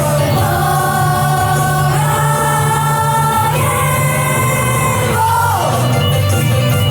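Music with a choir singing long held notes over a steady bass line, with a downward slide in pitch about five seconds in.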